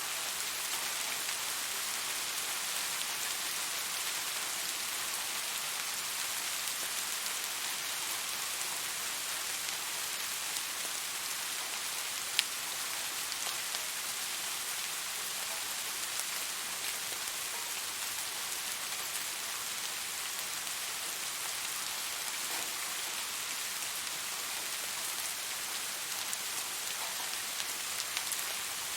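Steady rain falling, an even hiss with scattered drop ticks and one sharp tick near the middle.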